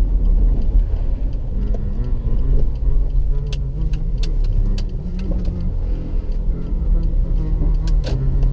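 Car engine and road rumble heard from inside the cabin while driving, the engine note shifting a little, with a few sharp clicks or knocks about three and a half, four, four and a half and eight seconds in.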